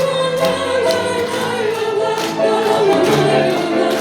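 Music: a Russian romance being sung, voices holding notes with a wavering vibrato over instrumental accompaniment.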